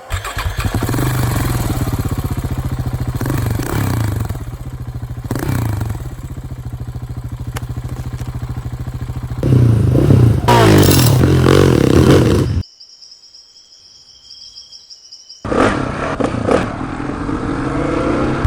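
Motorcycle engine running under way, with a louder, harder-pulling stretch about halfway through. It cuts out abruptly to a faint steady high whine for about three seconds, then comes back.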